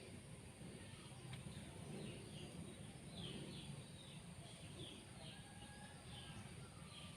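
Faint, rapid series of short, falling chirps from a young sooty-headed bulbul (kutilang) chick, over a steady low background rumble.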